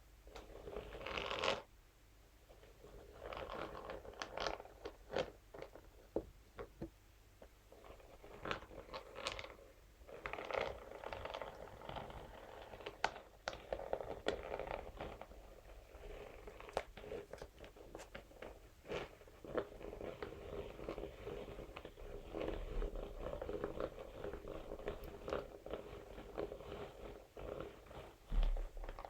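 Scalp massage brush scratched and rubbed against a material, making irregular crunchy scratching with many short sharp clicks.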